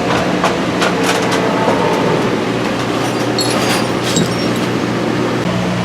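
Metal tools and engine parts clicking and clinking as the valvetrain is taken apart, with a burst of higher ringing metal taps about three and a half seconds in, over a steady mechanical hum.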